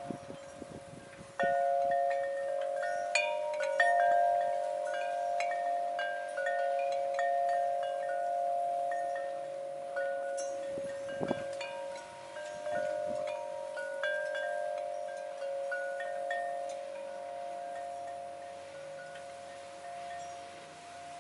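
Wind chime ringing in the wind, its tubes struck at irregular moments so that several clear notes overlap and sustain. A couple of brief low rumbles come near the start and about eleven seconds in.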